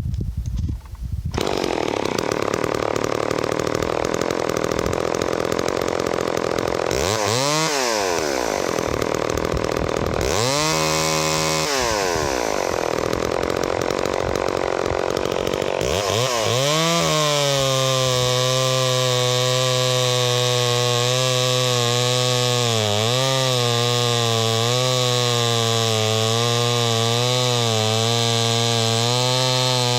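Vintage Homelite 150 Auto two-stroke chainsaw running. It is revved up and back down twice, then held at high speed from just past halfway, its pitch dipping now and then as it cuts into a 13-inch log of green box elder.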